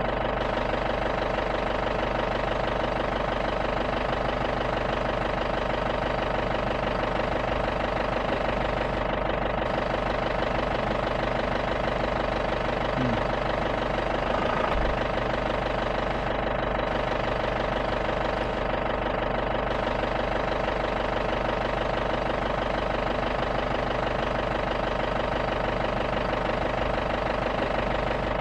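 Safari jeep's engine running at a steady speed, with an even hum that holds one pitch throughout.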